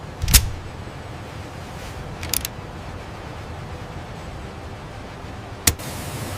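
Steady low machinery hum with sharp knocks over it: a loud one just after the start, a quick double knock in the middle, and one more near the end.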